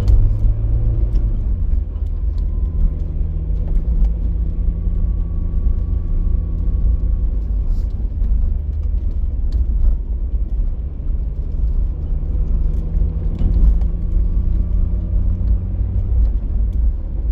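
Car in motion, heard from inside the cabin: a steady engine hum over a heavy low road rumble, with a few faint scattered ticks.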